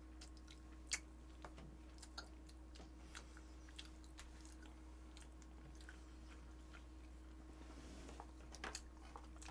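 Faint chewing, with scattered small clicks and taps from eating grilled fish with chopsticks, the sharpest about a second in, over a steady low hum.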